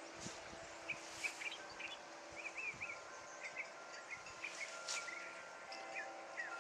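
Small birds chirping, many short high calls in quick runs, over wind chimes faintly ringing with long held tones.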